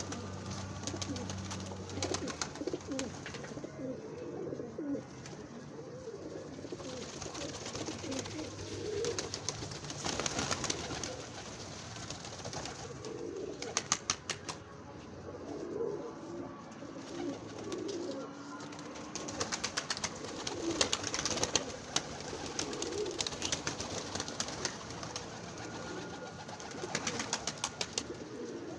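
Domestic pigeons cooing continuously, several birds overlapping. Bursts of sharp clattering about a third of the way in, around the middle, and near the end.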